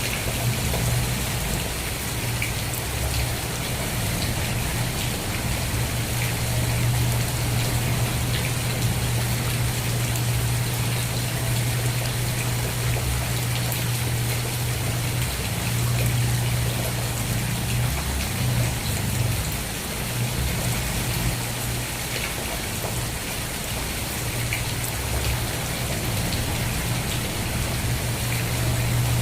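Steady rain falling, an even hiss with scattered drops ticking on a surface, over a constant low rumble.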